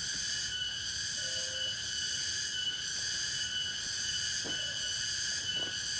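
Steady night chorus of crickets and other insects, a dense high trilling that pulses evenly. A short low call sounds about a second in, and two faint taps come near the end.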